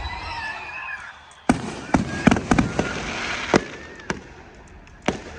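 Aerial fireworks going off: a hissing crackle, then from about a second and a half in a quick run of sharp bangs, several close together, with fewer bangs near the end.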